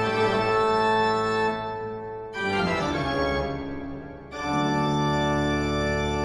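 Organ music: slow sustained chords, three in turn, each held about two seconds before the next one comes in.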